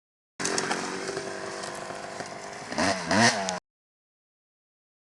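Dirt bike engine running at a steady note. About three seconds in it is revved up and down a few times, then the sound cuts off suddenly.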